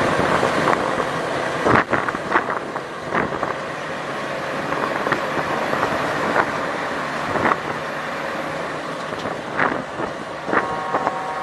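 Vehicle and road noise as picked up by a dashcam: a steady rushing noise with scattered sharp clicks or knocks, and a steady tone that comes in about a second before the end.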